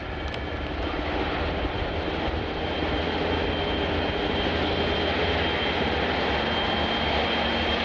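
Jet airliner's engines: a steady rushing noise that slowly grows louder, with a thin high whine coming in about halfway through.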